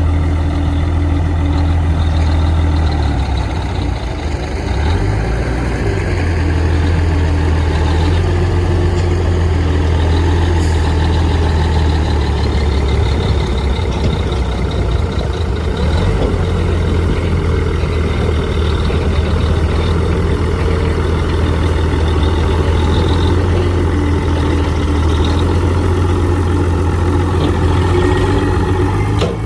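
Heavy earthmoving machine's diesel engine running steadily, a low drone that dips briefly and shifts in pitch about four to six seconds in before settling again.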